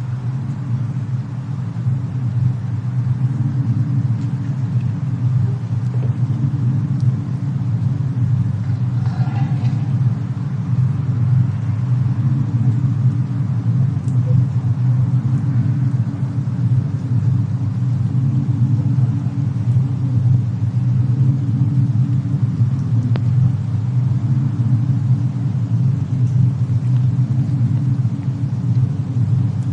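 Steady deep rumble from a winter-cabin fireplace and snowstorm ambience, with a few faint crackles scattered through it.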